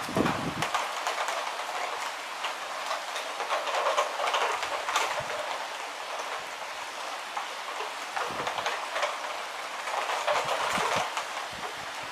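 Heavy rain falling steadily during a thunderstorm, with a few brief low rumbles near the start and about eight seconds in.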